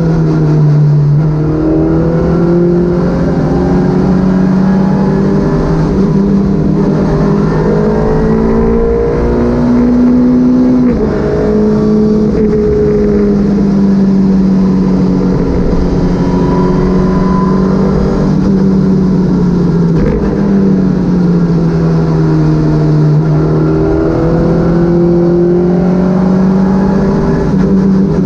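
Citroën Saxo VTS rally car's four-cylinder engine driven hard on a stage, the revs repeatedly climbing and dropping back. A steady low rumble of road noise runs under it.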